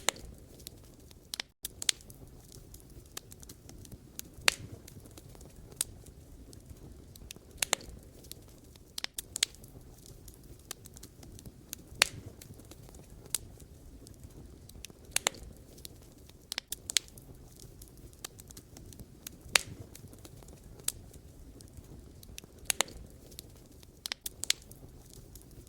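Wood fire crackling: sharp, irregular pops and snaps of burning firewood, a dozen or so louder ones scattered through, over a steady low rumble of the flames.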